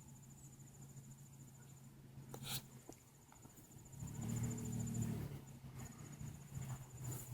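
An insect trilling steadily in a high, fast-pulsing tone. About four seconds in a brief low hum is heard, and there is a soft knock about two and a half seconds in.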